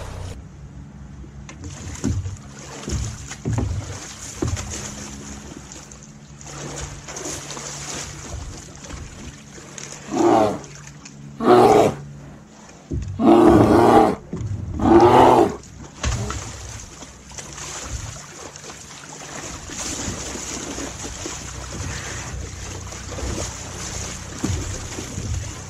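Four loud, drawn-out calls from a large animal, bunched close together about halfway through, the third the longest. Under them runs a steady background of wind and water noise.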